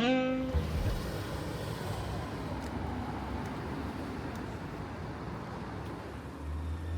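City street traffic noise, a steady rush of passing vehicles, with a vehicle's low engine hum swelling near the end. The tail of a music note fades out at the start.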